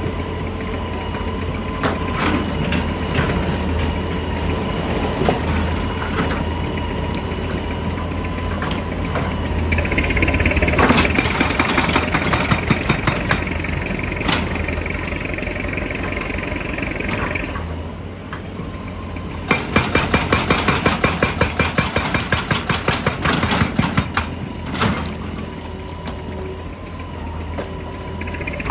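JCB excavator's diesel engine running under load, with a high hydraulic whine partway through and a run of rapid, evenly spaced hammer blows from a hydraulic rock breaker in the second half.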